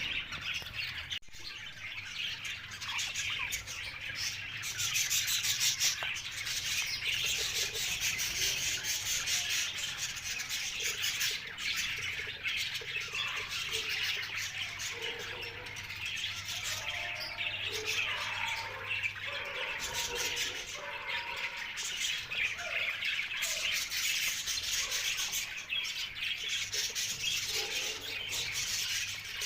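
Green parrots chirping and squawking in a continuous, dense chatter of short calls.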